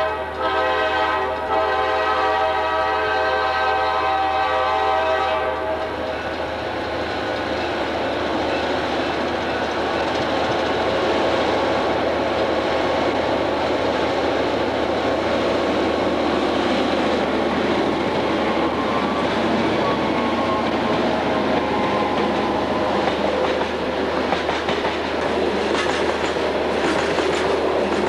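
EMD GP9 diesel locomotives' air horn sounding one steady blast that cuts off about five seconds in, then the diesels working as the loaded gravel train rolls past, with wheels clicking over rail joints near the end.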